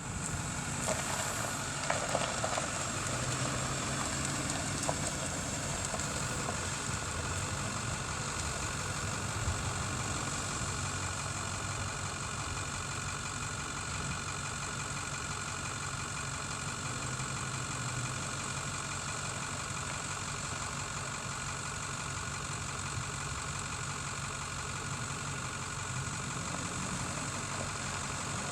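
2010 Dodge Charger police car's engine idling steadily, with a few light clicks in the first few seconds.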